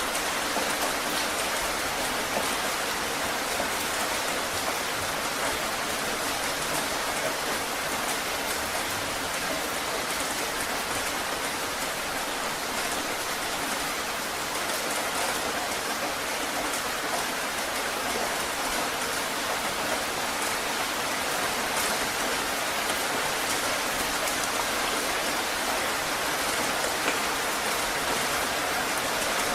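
Heavy rain falling steadily, an even hiss of many drops hitting a surface.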